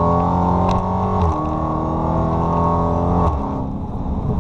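The 2015 Dodge Charger SRT Hellcat's supercharged 6.2-litre Hemi V8 is accelerating hard, heard from inside the cabin. Its pitch climbs steadily and falls twice as the automatic gearbox upshifts, about a second in and again near the end, after which the engine settles to a quieter run.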